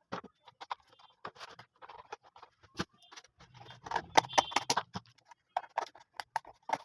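Small hard parts being handled in a craft build: irregular clicks, taps and scrapes, densest and loudest about four seconds in, with a low hum under that cluster for about a second and a half.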